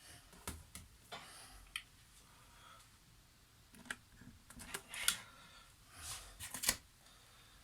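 Faint, irregular clicks and small knocks of handling tools and parts on a workbench, with two brief clusters of clatter about four and six seconds in.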